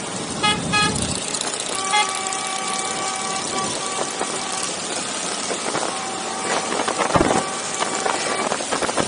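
Vehicle horns honking during a motorcycle ride: a few short toots, then long steady horn blasts lasting a couple of seconds each. Underneath is a continuous rush of wind and traffic noise with low rumbling swells.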